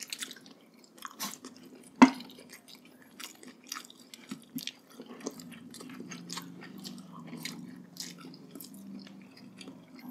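Close-up eating sounds of people chewing and biting braised pork hock: wet mouth clicks and smacks, with one sharp louder click about two seconds in.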